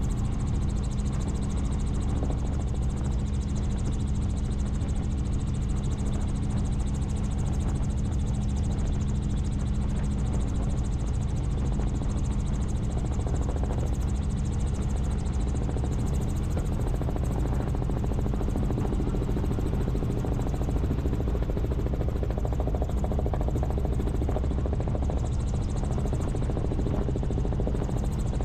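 Helicopter in flight, its engine and rotor making a steady, unchanging drone with a constant low hum.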